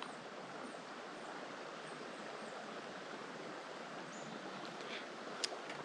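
Steady rush of a flowing creek, with one sharp click about five and a half seconds in.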